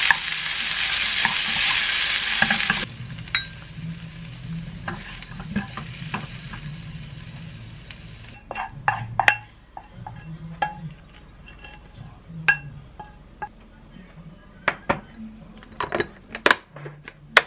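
Curry cauliflower fried rice sizzling loudly in a frying pan while a wooden spoon stirs it, for nearly three seconds. Then quieter stirring and scraping, and from about eight seconds in, sharp separate clinks and knocks as the rice is spooned into a glass container and its clip-lock lid is pressed shut.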